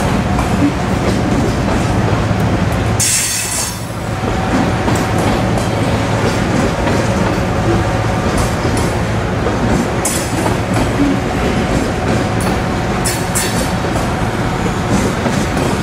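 A long freight train of Tropicana refrigerated boxcars rolling steadily past, the steel wheels rumbling and clattering on the rails. About three seconds in there is a brief high hiss.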